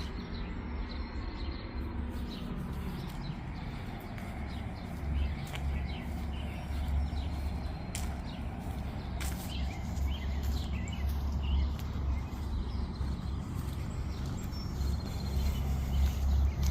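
A straight truck's engine running with a steady low drone and road noise while driving, heard from inside the cab, with a few sharp clicks or rattles.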